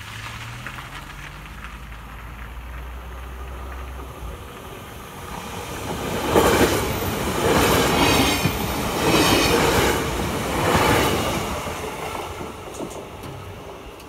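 Electric passenger train passing close by, its wheels clattering on the rails. The noise swells as four loud peaks, one for each bogie going past, then fades as the train moves away.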